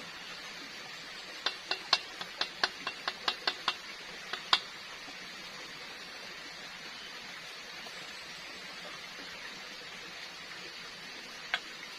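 A utensil clinking against a frying pan: about a dozen quick, sharp clicks over three seconds, then one more near the end, over a steady hiss.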